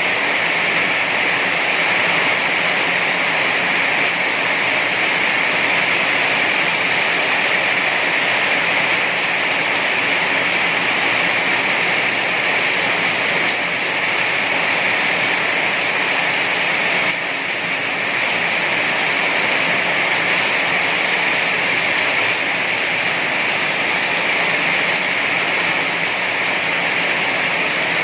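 Heavy rain falling steadily, a dense, even hiss of water with no single drops standing out.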